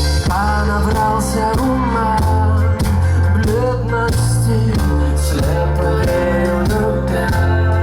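Live rock band playing a song with a steady drum beat and bass line, with singing over it.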